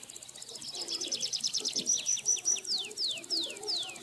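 African lovebirds calling: a quick run of shrill chirps, about eight a second, that turns into a series of falling whistled notes, about three a second, over a faint high insect trill.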